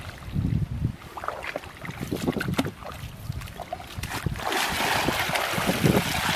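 Water sloshing and splashing in uneven pulses, with wind and rain noise swelling into a loud rush about four seconds in.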